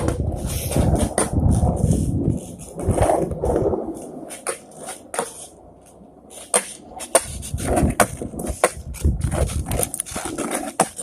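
Skateboard rolling on pavement, a low rumble for the first few seconds that fades, then a run of short clicks and knocks from about seven seconds in.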